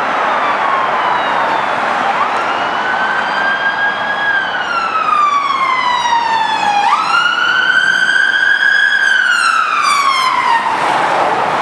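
Ambulance rapid response car's siren on a slow wail: the pitch jumps up quickly, climbs a little, then falls away slowly over a few seconds, about three times over road noise. It grows louder about halfway through.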